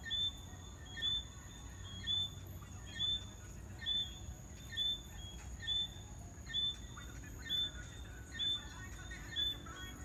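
Jamaican tree frogs calling, one frog giving a short chirp about once a second, eleven in all. A steady high-pitched trill of other callers sounds behind it.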